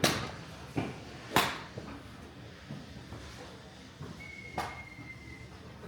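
Golf clubs striking balls: sharp cracks, the loudest right at the start and about a second and a half in, with fainter ones in between and about four and a half seconds in. A thin, steady beep sounds for about a second near the end.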